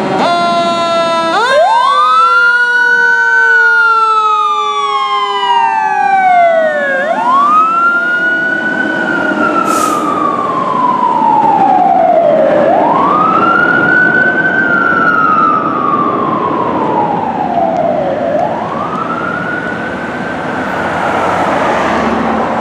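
Fire engine siren sounding a wail: each cycle climbs quickly, then slides slowly down, repeating about every five and a half seconds over steady engine and road noise. In the first few seconds a second, many-toned siren falls steadily in pitch.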